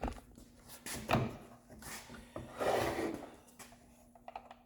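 Hand-handling of a new power tool: a click, then parts sliding and rubbing with a few light knocks.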